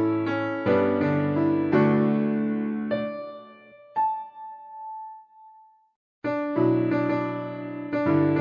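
Solo piano playing slow chords that die away about three seconds in; a single high note rings out and fades to a brief silence, then the chords come back in about six seconds in.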